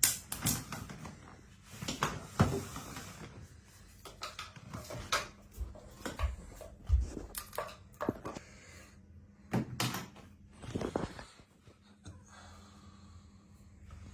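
A pen being batted and knocked about by a kitten: irregular taps, knocks and short scrapes, which die down to a quieter stretch near the end.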